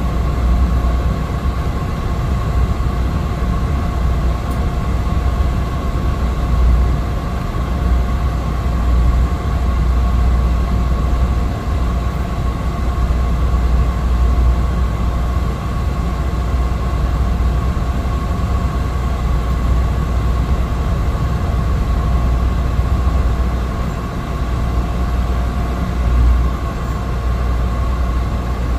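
Steady drone of a Cessna 208 Caravan's Pratt & Whitney PT6A turboprop heard from inside the cabin: a deep rumble with two steady whining tones above it.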